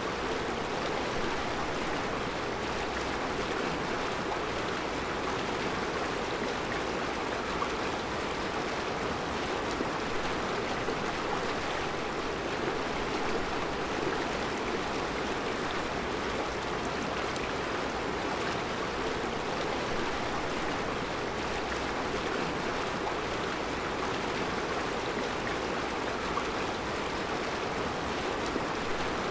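Mountain river rushing steadily over round rocks in a rocky riverbed: an even, unbroken flowing-water noise.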